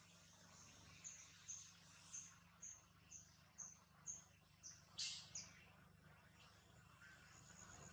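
Faint bird chirping: a run of about ten short, high notes, roughly two a second, the loudest about five seconds in.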